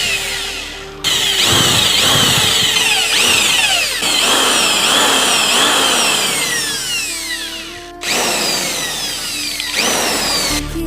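Electric power drill running in several spells, its whine sweeping downward in pitch again and again. Background music sits faintly underneath.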